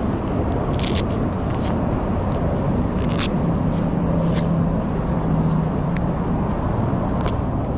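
Motorcycle engine running at a steady cruise under a dense wind rush on the microphone, with a few brief hissing bursts in the first half.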